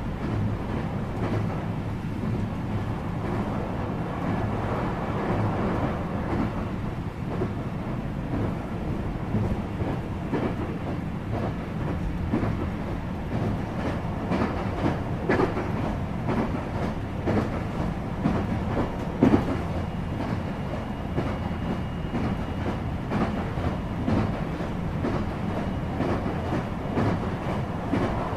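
New York City subway train running on the rails with a steady low rumble and wheel clatter, with a few sharp clanks past the middle. A faint high whine comes in soon after and fades out a few seconds later.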